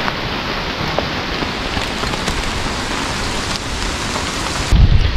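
Heavy rain falling steadily, with scattered close drops ticking. Near the end a much louder low rumble sets in.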